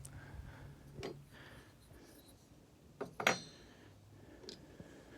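Light clicks and taps of small metal engine parts being handled, with one sharper metallic tap that rings briefly about three seconds in.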